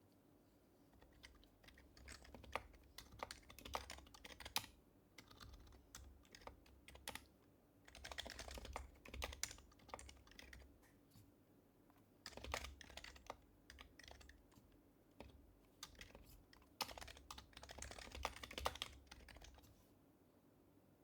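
Typing on an HHKB Professional HYBRID Type-S keyboard: soft, muffled keystrokes of its silenced Topre switches, in quick runs with short pauses between.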